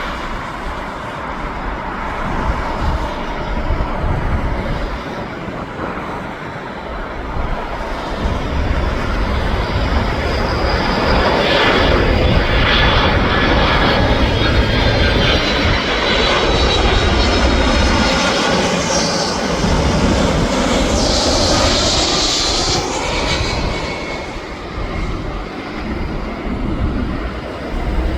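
Boeing 767-300 freighter's twin jet engines on final approach, growing louder as the jet passes close overhead, with a high whine and pitch sliding down as it goes by, then easing off in the last few seconds.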